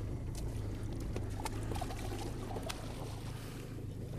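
Small splashes and trickling of water as a fish is held in the river beside a boat to revive it, over a steady low hum of a boat motor running.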